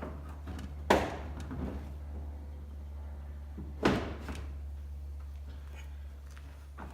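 Two sharp knocks about three seconds apart, the first about a second in, as tools or parts are handled while the rear bumper is taken off a car. A steady low hum runs underneath.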